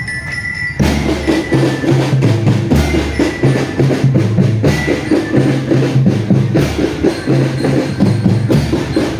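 Marching drum band playing: rapid drum strokes over deep bass-drum and low pitched notes. After a brief lull right at the start, the full band comes back in under a second in.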